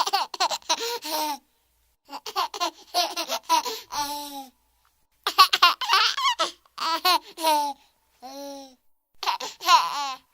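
A baby laughing and babbling in short bursts, with sudden dead silences between them, as if separate clips were cut together.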